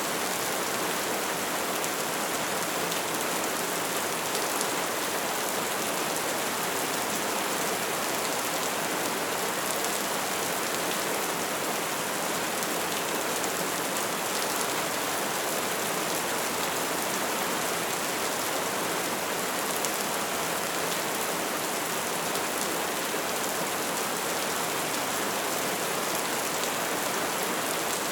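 Wood fire burning with a steady, dense crackle, a constant hiss of small pops and snaps without pause.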